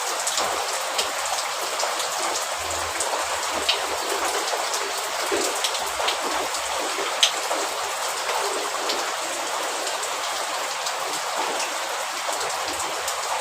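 Steady rain falling, with individual drops ticking sharply here and there; the loudest drop lands about seven seconds in.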